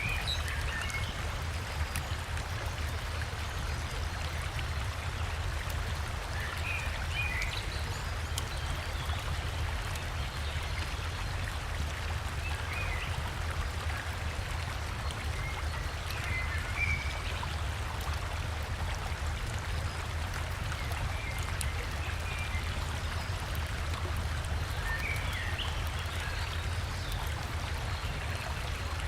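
Steady rush of a river and small waterfall, with a deep low rumble, and short bird chirps now and then.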